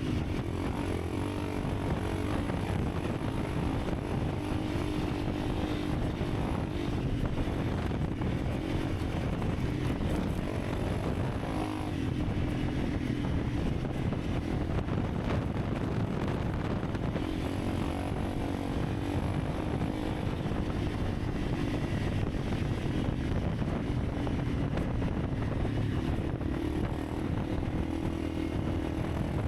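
Honda CRF300 Rally's single-cylinder four-stroke engine running while riding at a fairly steady pace, its pitch drifting up and down a little, over a steady rush of wind and road noise.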